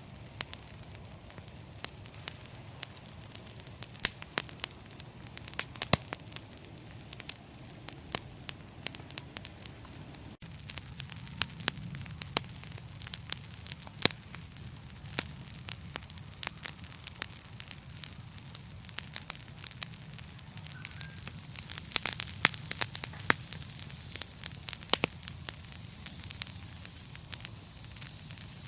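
Wood fire in a fireplace crackling, with many irregular sharp pops and snaps over a steady low rumble of burning flames. The sound cuts out for an instant about ten seconds in.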